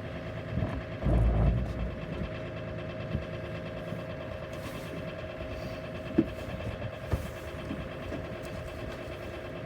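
Tractor engine running steadily, with a loud low rumble about a second in and a couple of sharp knocks later on.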